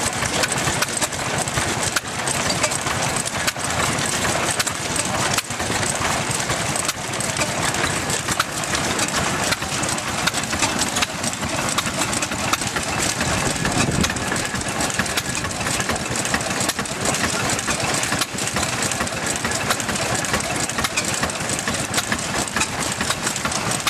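A 1920 Austral 4HP single-cylinder stationary engine running steadily, with an unbroken mechanical clatter.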